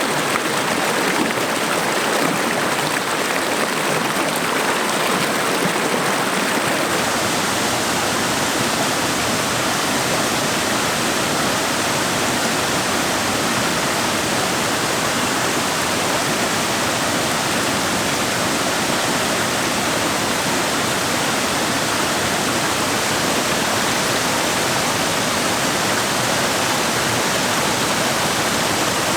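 Waterfall: a steady rush of falling water. About seven seconds in, the sound shifts to a fuller rush with more low rumble.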